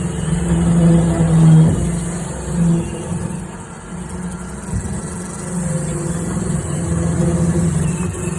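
Roomba robot vacuum running inside sheet-metal ductwork: a steady motor hum at one fixed pitch that swells and fades over rumbling and scraping.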